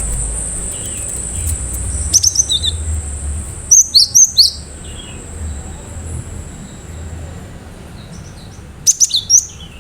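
Cinereous tit singing sharp, loud, falling chirps in three quick clusters, over a thin high steady tone that fades out about seven seconds in.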